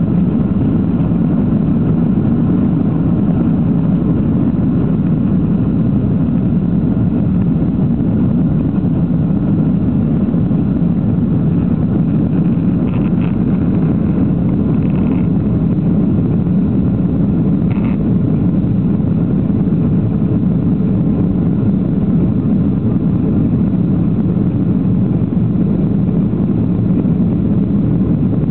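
Steady engine and airflow noise of a Boeing 737-800 jet airliner with CFM56-7B turbofans, heard from inside the passenger cabin during take-off and climb, with a deep, even hum that does not change in level.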